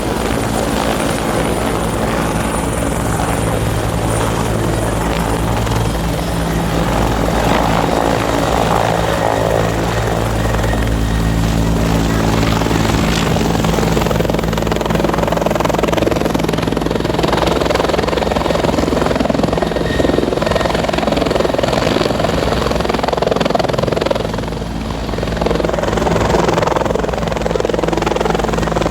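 Helicopter flying nearby, its rotor chop and turbine engine running loud and steady throughout.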